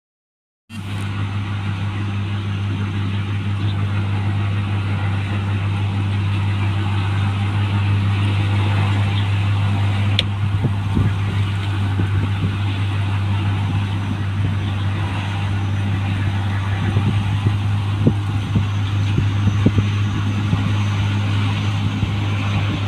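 New Holland 1545 rice combine harvester running steadily: a deep, even engine drone with mechanical clatter over it and occasional knocks in the second half.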